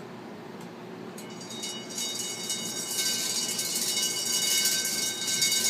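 Broken Windward ceiling fan switched on and spinning up, building over the first few seconds into a steady metallic ringing like a vibrating bell over a rushing noise; the fault began on its own while the fan was running.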